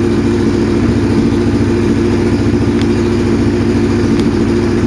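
Kawasaki Ninja 650R's parallel-twin engine idling steadily through an aftermarket Yoshimura carbon-fibre exhaust.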